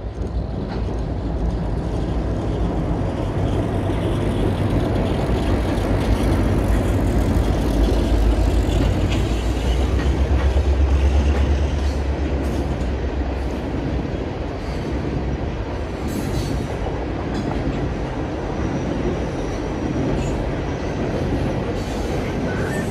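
Diesel-hauled freight train crossing a steel girder railway bridge: the locomotive's low engine drone is loudest about ten seconds in, then a long string of loaded wood-chip hopper cars rolls over with a steady wheel rumble and a few sharp clicks.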